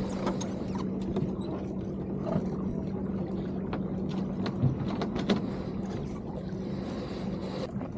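Water washing along a sailing keelboat's hull under way, with a steady low hum and scattered clicks and knocks of gear on deck. A hiss in the mix stops suddenly near the end.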